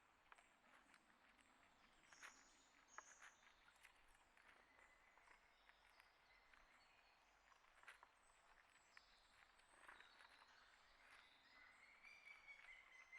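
Very faint outdoor ambience: small birds giving scattered short, high chirps among small clicks and taps. A steady high tone begins near the end.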